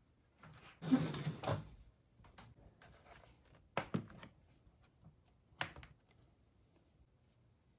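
Household handling noises: a brief scuffing noise about a second in, then two light knocks, like things being put down or a cupboard or drawer being worked.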